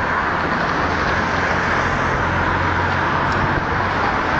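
Road traffic: a steady rush of tyre and engine noise from a passing motor vehicle, with a low engine hum that swells in the middle and fades near the end.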